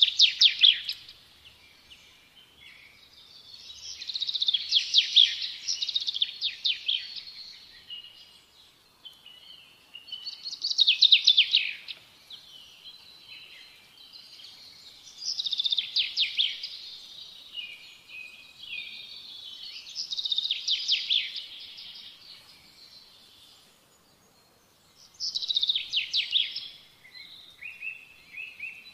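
A songbird singing: phrases of rapid chirping trills, each a second or two long, repeated about every five seconds.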